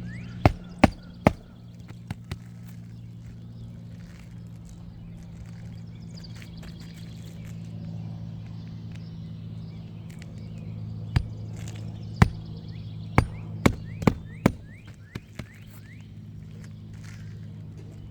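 Hammer strikes on roofing nails in asphalt shingles: three sharp blows in the first second and a half, then a run of about six more in the second half. A steady low hum and faint bird chirps lie beneath.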